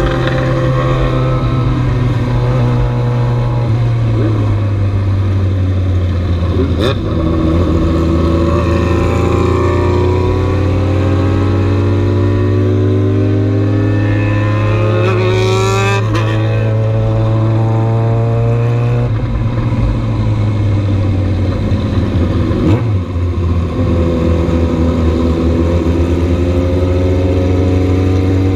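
Motorcycle engine running under way at road speed, with rising revs from about a third of the way in that break off suddenly past the halfway point, then a steady drone again.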